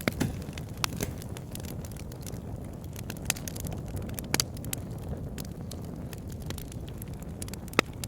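Wood fire in a log burner, with a steady low rumble of flames and irregular sharp crackles and pops from the burning logs.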